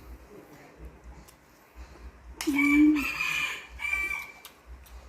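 A rooster crowing once, starting about two and a half seconds in and lasting about two seconds.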